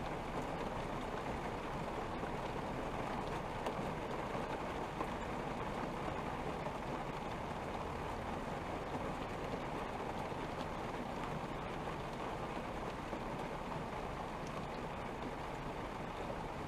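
Steady rain falling, a continuous even patter with a few louder drops here and there.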